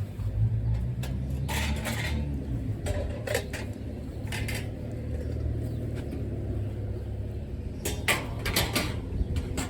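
Thin raised garden bed panels and cross beams clattering and scraping as they are slid into their slots, in several short bursts of handling noise over a steady low rumble.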